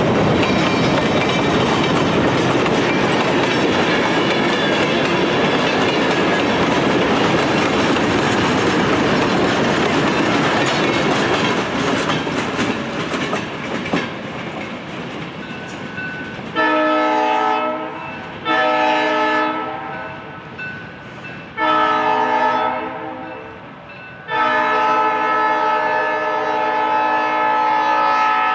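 Train cars rolling past on jointed track, wheels clattering, the noise fading as the train moves away. From about halfway in, a locomotive's multi-chime air horn sounds four blasts in the distance, three short and the last one held.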